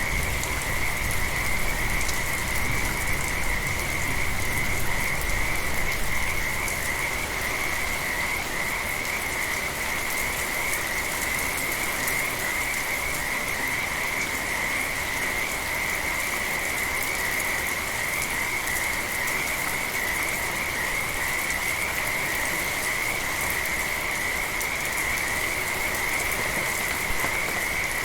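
A chorus of frogs calling continuously in one steady high-pitched band, over the even hiss of steady rain. A low rumble sits under it for the first six seconds or so, then eases.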